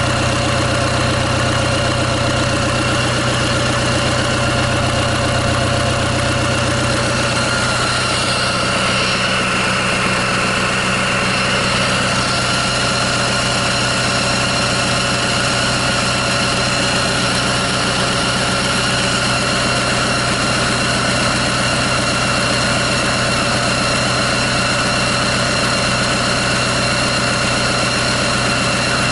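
Kia J3 2.9-litre four-cylinder diesel engine idling steadily on a test run out of the vehicle, during an oil pressure check; its note shifts slightly about eight seconds in.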